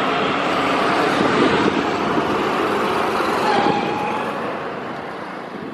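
Highway traffic noise from heavy trucks and buses moving past, a steady rumble and tyre noise that fades away over the last couple of seconds.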